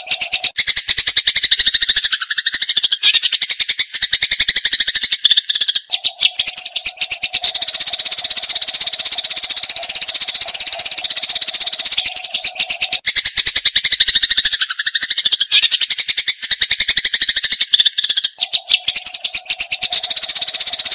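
Eurasian tree sparrows giving agitated fighting calls: a loud, unbroken run of very fast, harsh chirps and chatters, high-pitched.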